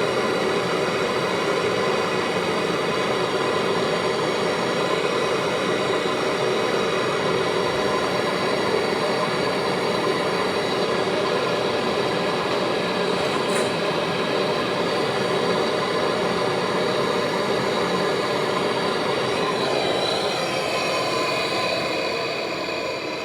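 A machine running steadily: a continuous noisy hum carrying several high steady tones. The tones shift and the level begins to drop near the end.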